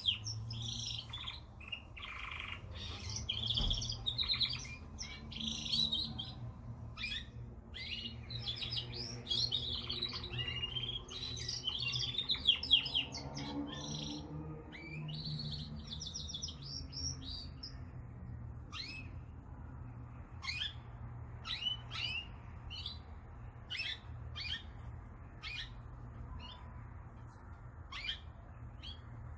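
Domestic canary singing, with rapid trills and warbles for about the first half, then only short chirps now and then for the rest, over a low steady hum.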